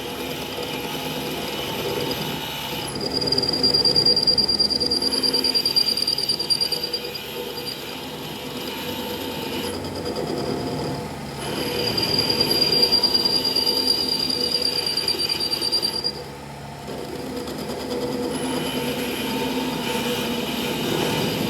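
Metalworking machine running steadily with a high-pitched metal-on-metal squeal, which comes in loud twice, each time for about four seconds.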